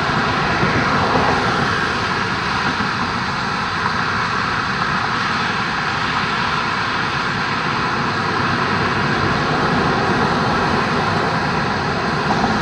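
Steady jet airliner noise: an even rushing sound with faint constant tones, unchanging throughout.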